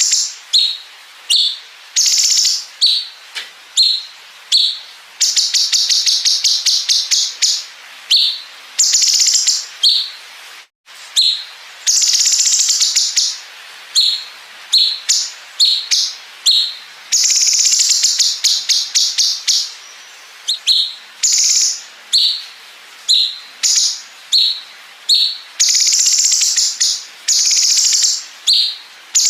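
Cucak cungkok songbird singing loudly: sharp high chirps repeated about once or twice a second, broken several times by long, rapid buzzing trills.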